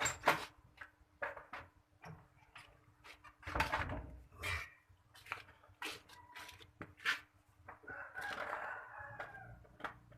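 A rooster crowing once near the end, one wavering call about a second and a half long, over scattered clicks and knocks.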